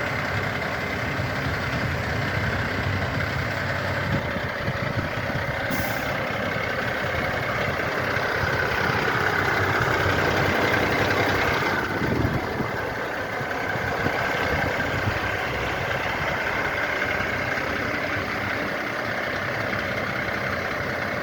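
Diesel engine of a Renault Midlum 270dCi fire truck running steadily. A whine in the sound grows somewhat louder for a few seconds about halfway through, then eases back.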